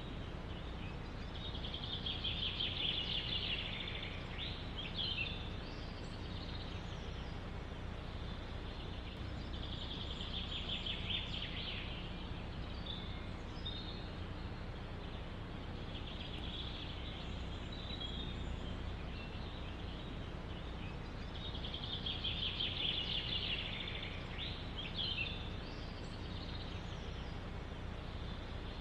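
Songbird singing fast, trilling phrases about every six seconds, with faint short chirps between, over a steady low wind rumble.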